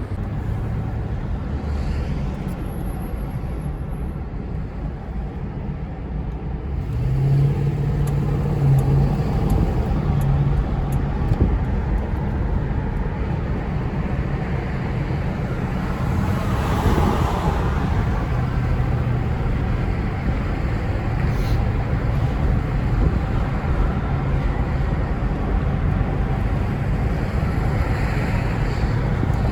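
Car on the road: steady engine and road rumble, getting louder about seven seconds in.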